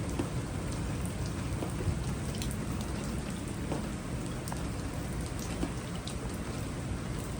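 Heavy rain pouring steadily, a continuous hiss with scattered sharper drop hits.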